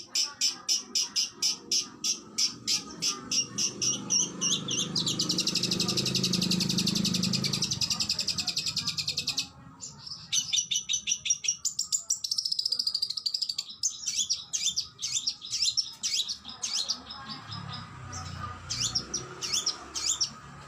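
Oriental magpie-robin (kacer) singing a fast run of sharp repeated notes, about five a second, which merges into a dense continuous trill that breaks off about nine seconds in. Varied quick whistled phrases follow.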